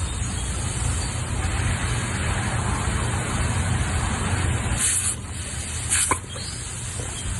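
Water spraying from a garden hose: a steady hiss over a low rumble, with two short, sharper spurts about five and six seconds in.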